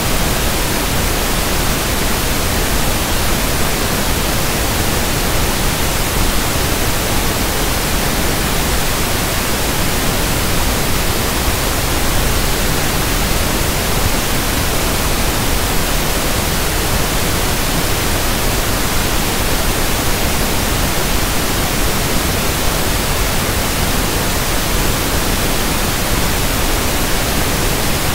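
Generated pink noise (1/f noise): a steady, even hiss that does not change.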